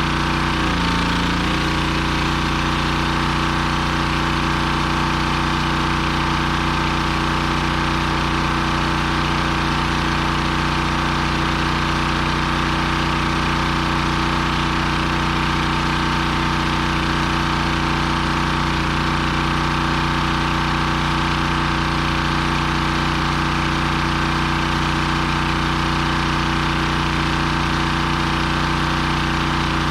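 Pressure washer's gas engine running steadily, its pitch shifting briefly about a second in before settling.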